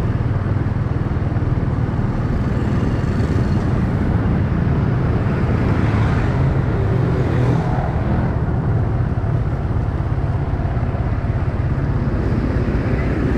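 A motorcycle riding along a city road: steady engine and wind noise with a continuous low rumble, and traffic around it.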